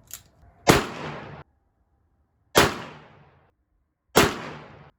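Three shots from a Smith & Wesson Model 686 .357 Magnum revolver with a 6-inch barrel, firing 125-grain handloads. The shots come about one and a half to two seconds apart, and each trails off over most of a second.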